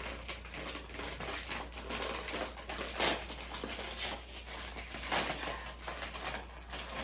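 Irregular crinkling and crackling from a bag of Cool Ranch Doritos being handled, with a few sharper crackles about three and five seconds in.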